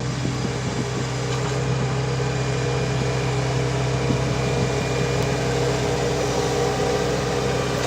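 Mahindra tractor's diesel engine idling steadily on a cold start, just after the glow plugs were used.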